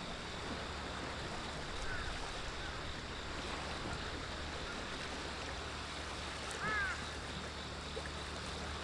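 Steady wash of sea waves, with a couple of brief high chirps about two and seven seconds in.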